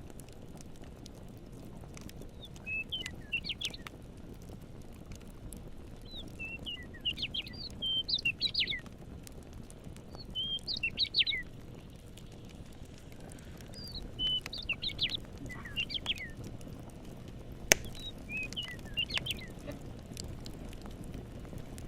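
A songbird singing five short phrases of quick chirps and trills, a few seconds apart, over the low steady crackle of a wood campfire. One sharp pop from the fire comes about three-quarters of the way through.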